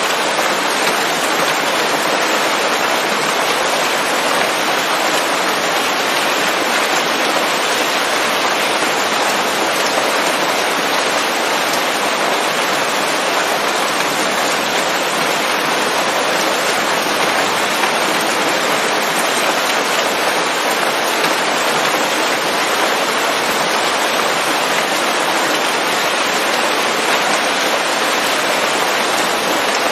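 Rain falling steadily on leaves, an even hiss that holds the same throughout with no thunder.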